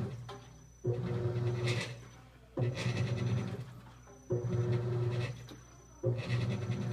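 Continental Aqua Saver 16 kg top-loading washing machine in its initial agitation: the motor kicks in with a hum about every second and three-quarters, drives the agitator for about a second, then fades until the next stroke, four strokes in all.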